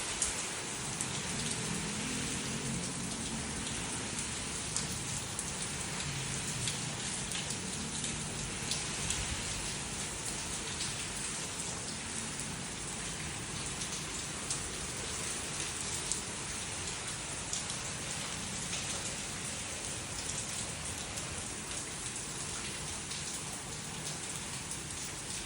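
Heavy rain falling steadily, with many small sharp drop ticks over the even hiss of the downpour.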